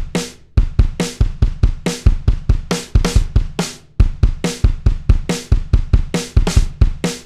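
Background music: a drum-kit beat of bass drum, snare and cymbal strokes, about four a second, that cuts off suddenly at the end.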